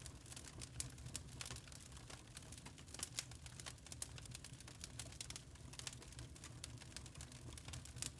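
Burning charcoal crackling: many small, irregular snaps and pops in quick succession over a low, steady rumble.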